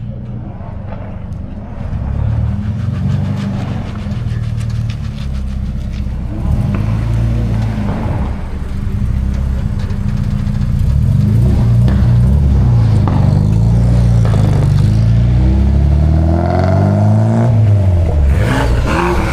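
Car engines running with a deep exhaust rumble that grows louder over the span, with revs rising near the end.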